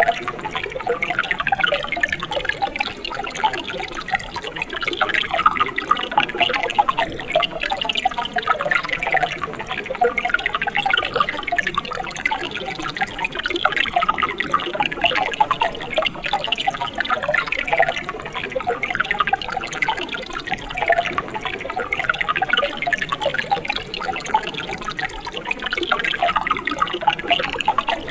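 Mountain stream water running and splashing steadily over rocks, a dense bubbling with many small splashes and no let-up.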